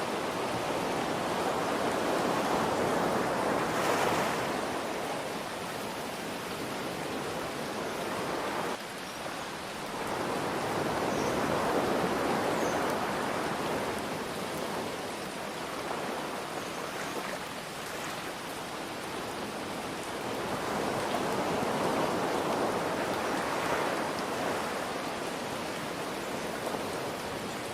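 Ocean waves washing in three slow surges, each swelling and ebbing over several seconds, under a steady hiss of rain.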